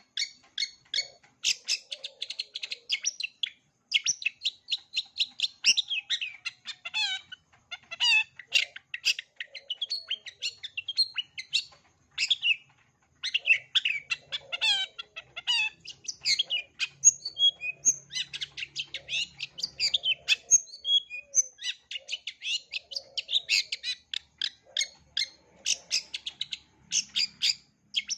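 Long-tailed shrike (cendet) singing a fast, chattering song of short, high chirps and trills in quick runs, broken by a few brief pauses. This is a full-repertoire song of mimicked phrases, used as a master recording for teaching young shrikes.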